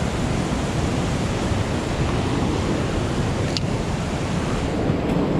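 Steady rush of creek water and a waterfall, with a single faint click about three and a half seconds in.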